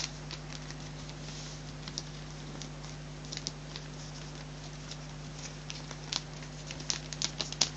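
Sheet of paper being folded and creased by hand into a paper airplane: scattered soft rustles and crinkles, busier near the end, over a steady low hum.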